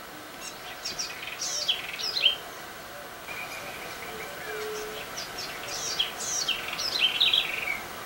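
Bird singing in two bouts of quick, high notes that sweep downward, the first beginning about half a second in and the second about six seconds in, each lasting about two seconds, with a short steady note in between.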